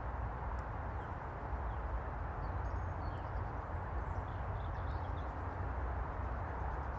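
Outdoor ambience by a reservoir: a steady low rumble with faint, short, high bird chirps now and then in the middle.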